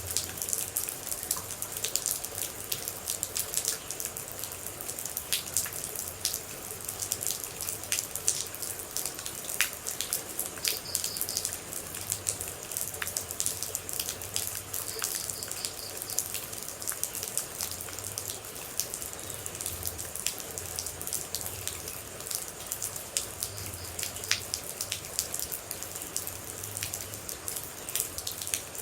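Rain falling, with many close water drops landing in dense, irregular ticks over a steady hiss.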